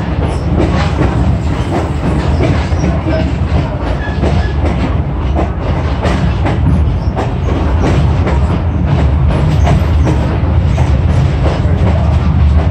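Passenger train car rolling along the track: a steady low rumble with irregular clatter and knocks from the wheels on the rails.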